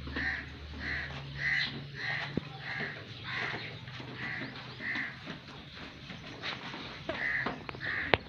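A bird calling over and over: eight short calls at a little under two a second, a pause, then two more near the end. A couple of sharp clicks sound just before the end.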